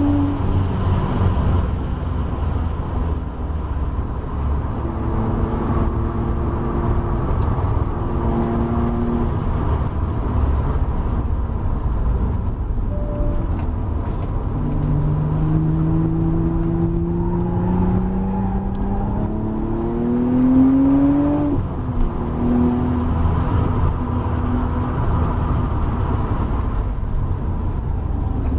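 Audi B5 RS4's twin-turbo 2.7-litre V6 at race pace, heard from inside the cabin over heavy road and wind rumble. Its note falls away as the car slows for a corner, then rises steadily for about six seconds under acceleration and drops off sharply.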